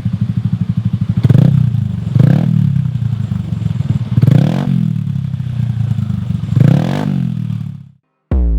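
Yamaha NMAX 155 scooter's single-cylinder engine, breathing through a Shijiro MT GP aftermarket racing exhaust, idling with a lumpy pulse and blipped on the throttle four times. The engine sound cuts off near the end and music starts.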